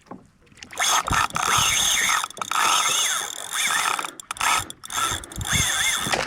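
Fishing reel whirring and clicking while a hooked fish is fought from a kayak, in stretches broken by short pauses from about a second in.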